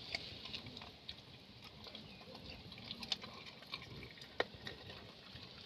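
A dog eating food: faint, irregular small clicks and smacking sounds, a sharper click about four and a half seconds in.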